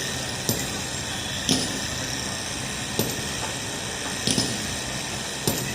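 Hand-pumped tubewell being worked: the pump handle gives a short metallic knock on each stroke, about one every second or so, over a steady rushing noise.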